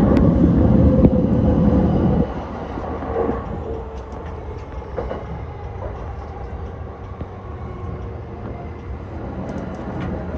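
Yokosuka Line E235-1000 series electric train running on the rails, a steady rumble of wheels and track heard from the front of the train. The rumble is loud at first and drops suddenly about two seconds in, then stays at a quieter, even level.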